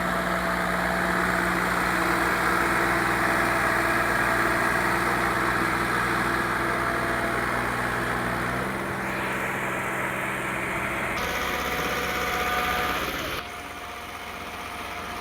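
Tractor diesel engine running steadily. The sound changes abruptly three times, the last time turning quieter near the end.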